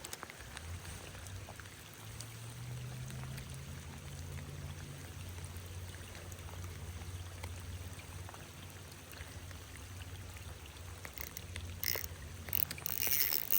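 A low, steady, pitched drone that starts about a second in and fades near the end, with a few faint clicks near the end.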